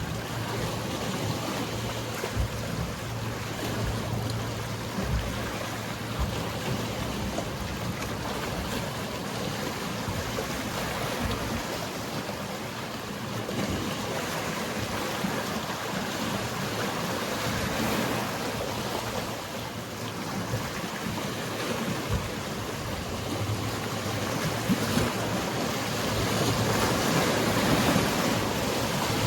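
Sea waves washing continuously, with the steady low hum of a boat engine in the first few seconds, fading out, then returning near the end.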